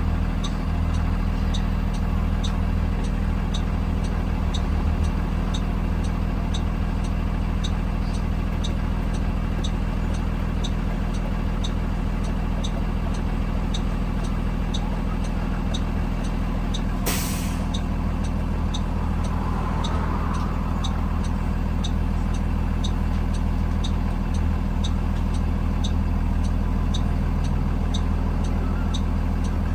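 A 2020 Blue Bird Vision school bus running steadily, heard from inside the bus. A regular ticking, about one and a half ticks a second, runs throughout. About 17 seconds in comes a short, sharp hiss of air from the air brake system.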